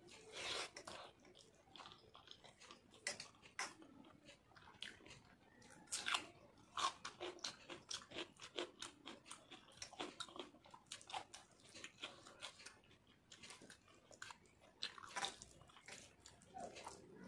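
A person chewing a mouthful of rice and dal eaten by hand, with a dense run of short clicking mouth sounds, several a second.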